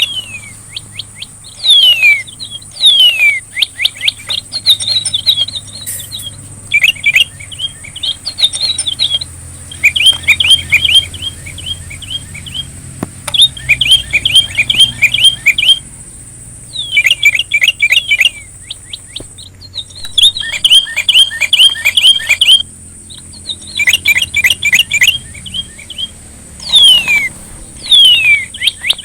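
Sri rejeki bird singing: bursts of rapid chirping trills and sharp falling whistles, each phrase lasting a second or two with short pauses between. A constant thin high-pitched whine sits behind the song.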